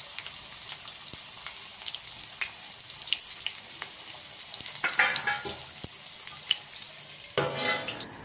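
Bitter gourds shallow-frying in mustard oil in a metal kadhai on low heat: a steady sizzle with scattered crackles and pops. A louder, brief noise comes near the end.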